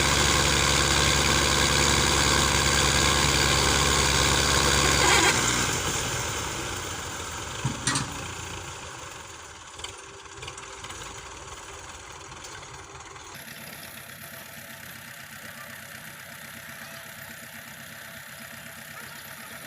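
Diesel tractor engine running steadily, then falling away about five seconds in and fading to a low background, with a couple of sharp knocks around eight seconds in.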